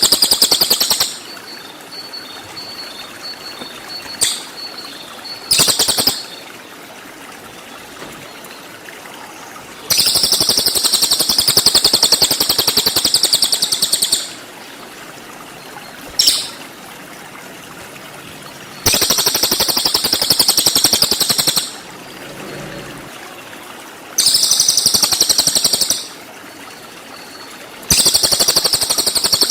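Cililin songbird singing 'tembakan': bursts of very rapid, high-pitched rattling notes, each one to four seconds long, repeated about every four to five seconds, with a few single sharp notes between them. A steady hiss like running water lies underneath.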